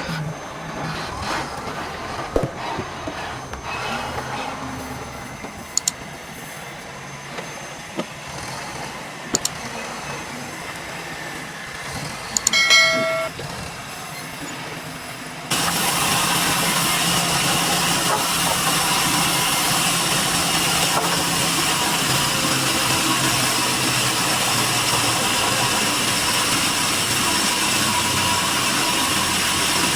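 Sawmill machinery. Scattered knocks and clatter come first, with a short pitched tone a little before halfway. Then, about halfway in, a machine starts up suddenly and runs steadily and loud.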